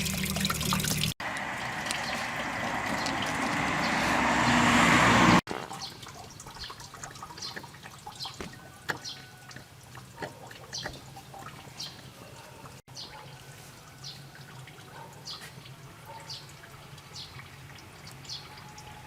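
Water pouring or running, growing louder for a few seconds, then cut off. After the cut comes a quieter stretch of scattered drips and small splashes.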